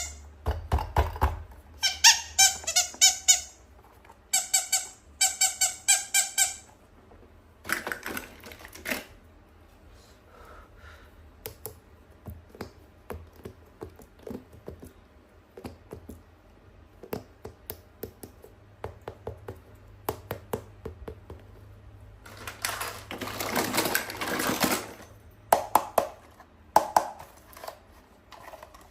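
Toy unboxing handling sounds: two runs of rapid, pitched squeaks in the first seven seconds, then scattered light plastic clicks and taps, and a rustle of packaging about three quarters of the way through.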